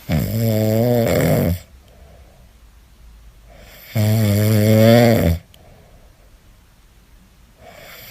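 A sleeping pet snoring: two long, rasping snores about four seconds apart, each lasting about a second and a half, with faint breathing in between and a third snore starting at the very end.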